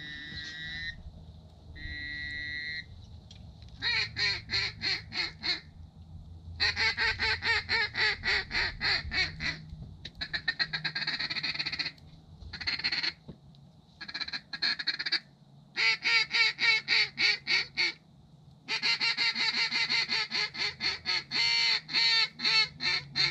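Duck quacking in quick runs of evenly spaced notes, several a second, in bursts of one to four seconds with short pauses between them.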